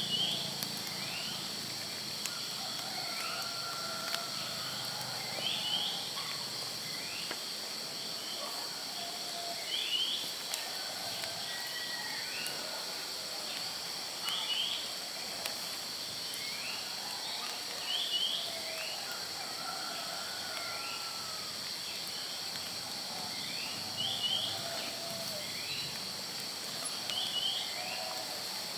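Tropical forest ambience: a steady high insect drone, with birds calling. One bird gives a short pair of quick rising notes every few seconds, and softer wavering calls sound in between.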